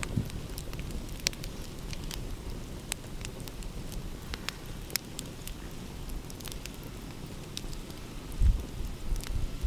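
Wood fire crackling, with irregular sharp pops and snaps, over a steady low rumble that swells briefly near the end.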